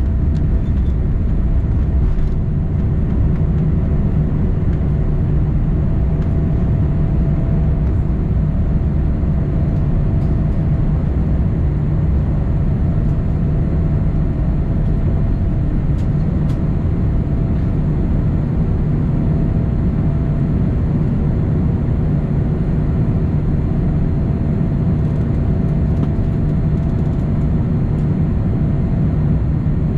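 Boeing 787-9 airliner heard from inside the passenger cabin during takeoff and climb-out: a steady, loud low rumble of the engines at high thrust and the airflow, with a faint steady hum.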